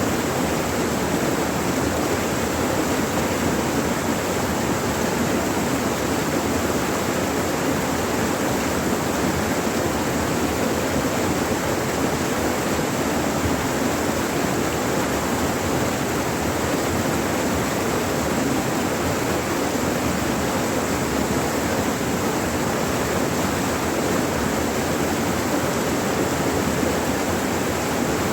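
River water rushing steadily, a constant dense roar of flowing water with no breaks or changes.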